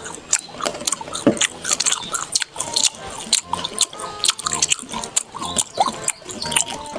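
Close-up chewing and biting of soft watermelon gummy candy: a dense, irregular run of short clicks and smacks at the mouth, over faint background music.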